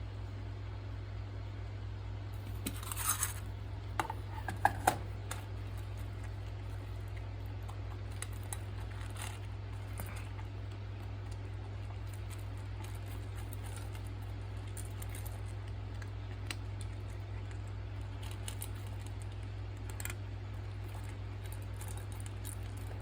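A few light clicks and taps about three to five seconds in, then scattered faint ticks, over a steady low hum.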